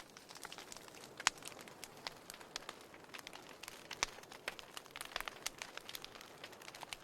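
Fireplace fire crackling: irregular sharp pops and snaps over a soft hiss, the loudest pop about a second in and another about four seconds in.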